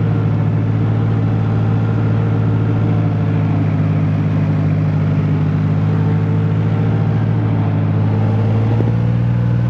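John Deere 5055E tractor's diesel engine running steadily, its pitch stepping up slightly about nine seconds in.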